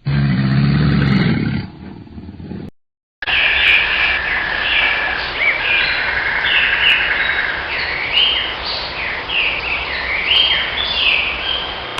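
A deep animal roar that lasts about two seconds and trails off. After a brief silence, a flock of birds chirps densely, many short high falling calls overlapping over a steady hiss.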